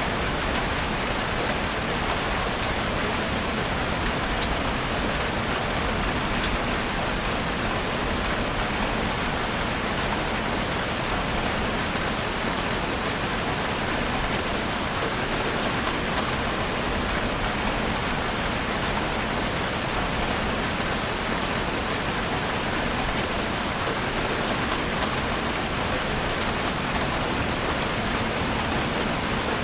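Heavy rain falling steadily on a roof, an even dense hiss with fine scattered drop ticks.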